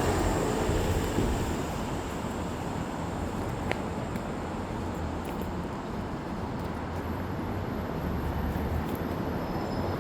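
Street traffic noise: a steady wash of passing vehicles with a low rumble, a little louder in the first second or so, and one faint click about four seconds in.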